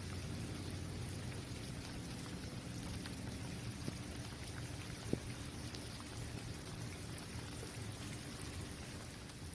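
Steady rain falling on an outdoor basketball court, an even hiss of drops with scattered sharper drip hits, two of them standing out about four and five seconds in.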